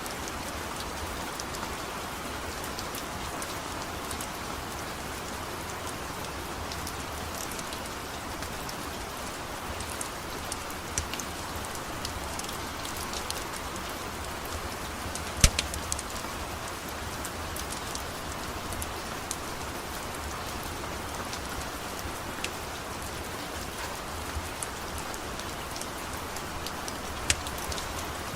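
Steady rain falling, with a scattering of sharp pops or clicks over it; the loudest comes about halfway through and another near the end.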